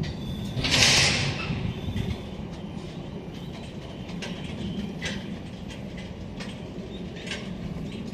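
Koki 106 container flatcars of a freight train rolling slowly, with a low rumble and slow, scattered wheel clicks over rail joints. A loud burst of hiss comes about a second in and lasts about a second.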